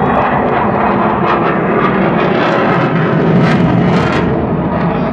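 A fixed-wing aircraft flying past, a loud engine rush that builds to a peak about three and a half seconds in and then eases off.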